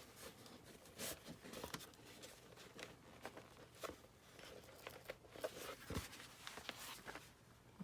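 Faint paper rustling with scattered light ticks: a threaded needle being worked against a journal's folded pages, feeling for a pierced sewing hole in the spine.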